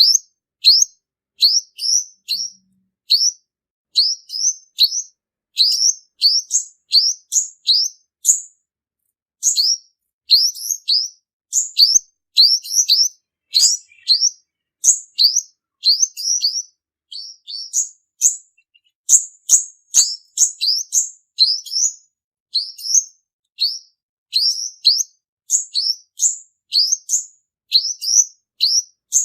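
Male olive-backed sunbird calling: a fast, steady run of short, high, rising chirps, often in quick pairs or triplets, repeated over and over as a trapping lure call.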